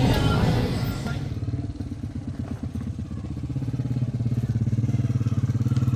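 An engine running with a rapid, even beat, getting louder from about three seconds in. A louder mixed noise fades out in the first second.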